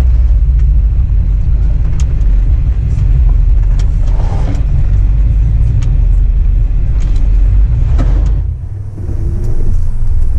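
Truck engine running with a loud, steady low rumble and scattered clicks. The level dips briefly about eight and a half seconds in, then comes back up.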